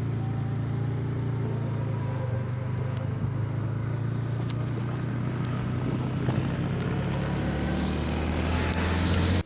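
An engine running steadily with a low drone, the pitch dropping and a hiss building over the last second or so before it cuts off abruptly.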